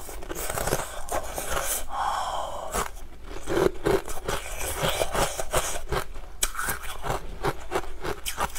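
Close-up crunching and chewing of frozen honey ice, a steady run of crisp irregular crackles, with pieces scraped and pried out of a silicone mould near the start.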